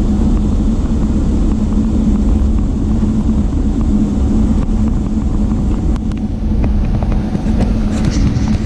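Jet airliner heard from inside the cabin: a steady low rumble with a constant hum, and a few light rattles near the end.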